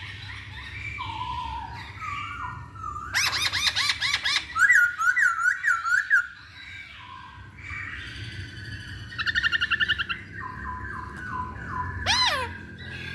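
Masked laughingthrush (poksay Hongkong) singing: a varied run of loud whistled phrases, rapid trills and series of repeated notes, quieter for a couple of seconds in the middle.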